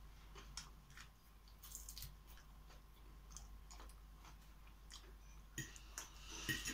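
Faint close-up sounds of a person chewing soft food (dill, mashed potato), with small wet mouth clicks. A few sharper clicks near the end.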